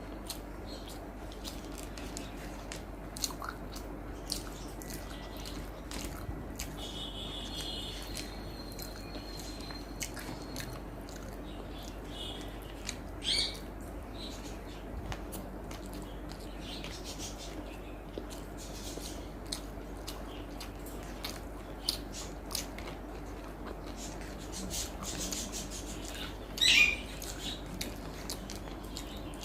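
Quiet eating sounds: chewing and small clicks of food and fingers on a plate, over a steady low hum. A few brief high-pitched chirp-like sounds come through, one about halfway and the loudest near the end.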